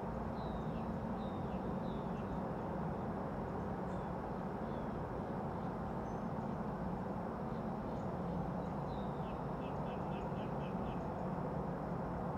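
Steady low background rumble with a bird chirping: a few falling chirps in the first two seconds, then a quick run of about six short chirps near the three-quarter mark.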